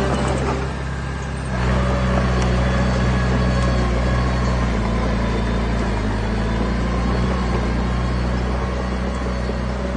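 A heavy machine's diesel engine running steadily, easing off briefly just after the start and picking up again about one and a half seconds in.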